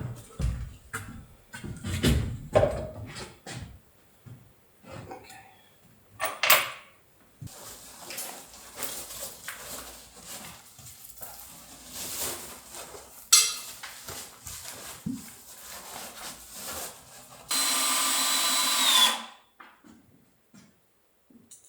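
Scattered knocks, clicks and scraping of hand work with tools. Near the end a power drill runs steadily for under two seconds, its pitch dropping slightly as it stops.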